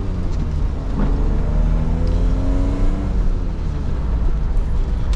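BMW Z3 M's straight-six engine heard from inside the cabin, accelerating with its pitch climbing steadily for about two seconds, over a steady low road rumble.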